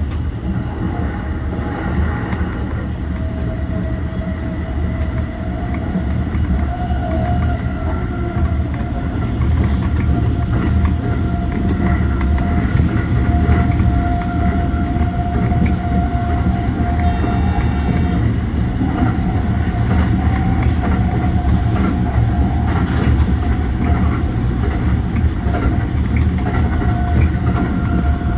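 JR East E235-1000 series electric multiple unit running at speed: a steady rumble of wheels on rail, with a steady whine over it.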